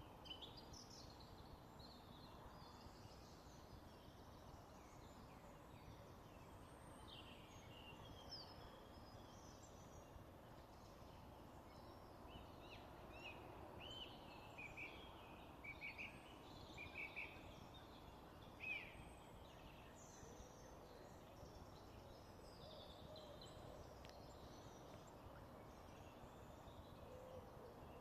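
Several small songbirds chirping and trilling faintly over a steady low background hiss; the calls cluster most thickly about halfway through.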